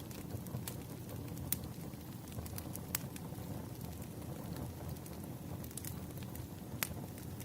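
Burning firewood crackling: a steady low rustle with scattered sharp pops, a few of them louder, about a second and a half in, three seconds in and near the end.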